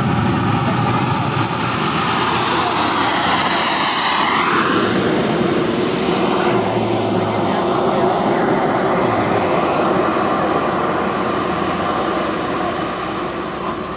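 Turbine-powered RC jet with a KingTech 235 gas turbine running: a high whine that rises and falls in pitch over a steady jet rush, sweeping past about four seconds in and easing off slightly near the end.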